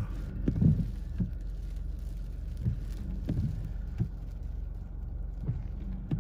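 Quiet car cabin with the low steady hum of an idling engine and a few soft scattered taps: the sleet has turned to snow, so almost nothing is striking the car.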